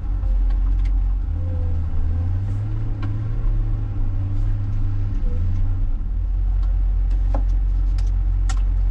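John Deere 544K wheel loader's diesel engine running steadily with a deep low hum, with a few sharp knocks near the end.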